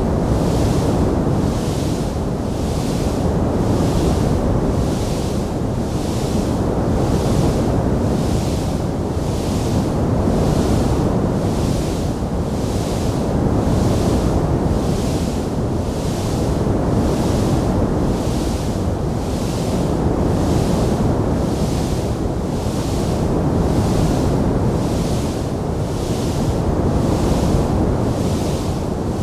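Wood fire burning in a fireplace: a steady, deep rushing noise that swells gently every few seconds, with no distinct crackles or pops.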